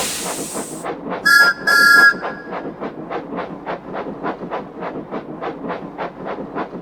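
Steam locomotive letting off a burst of steam, then giving two short whistle peeps about a second in, then puffing away steadily at about four chuffs a second.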